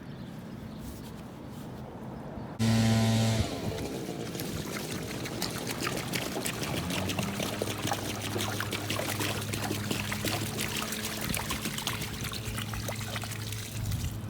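Water pouring and splashing as a rusty motorcycle gas tank is rinsed out. It starts about three seconds in, right after a short loud buzz, and keeps going.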